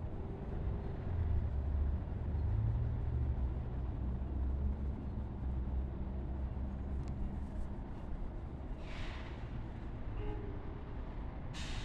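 Train at a station platform running with a steady low rumble, with short bursts of air hiss about nine seconds in and again near the end.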